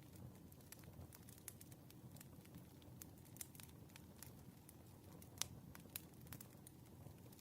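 Faint campfire crackling: irregular sharp pops and snaps over a low steady rumble, with one louder pop a little past halfway.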